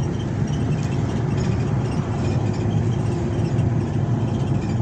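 A steady low rumble, like a vehicle engine running.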